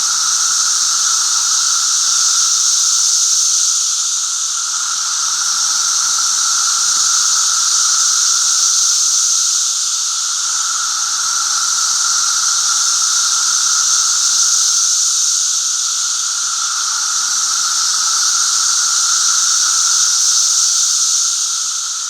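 Chorus of Brood V periodical cicadas calling en masse: a loud, unbroken drone made of a high shrill buzz and a lower steady tone, swelling and easing slowly every several seconds.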